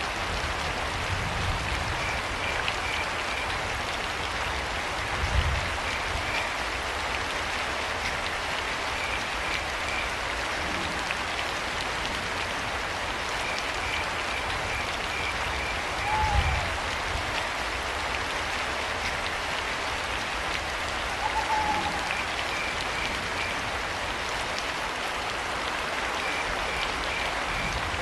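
Steady rain falling, with crickets chirping in short trains of rapid pulses every few seconds. Two short owl calls come about 16 and 21 seconds in, and a couple of low thumps sound at about 5 and 16 seconds.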